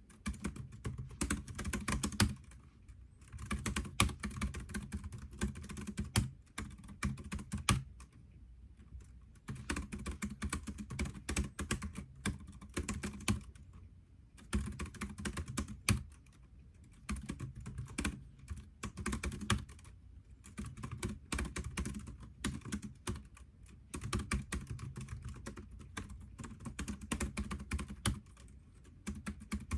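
Computer keyboard being typed on in bursts of rapid keystrokes, each run lasting a few seconds and separated by short pauses.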